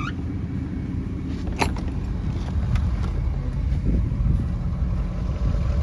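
A vehicle driving, a steady low rumble, with one sharp click about a second and a half in.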